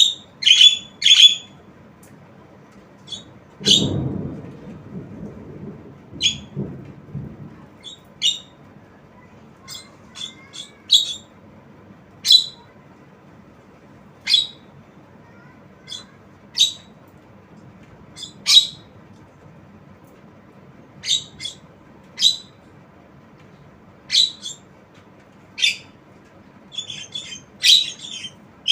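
Javan myna giving short, sharp squawking calls, one every second or two, some doubled or in quick runs. A low rumble comes briefly about four seconds in.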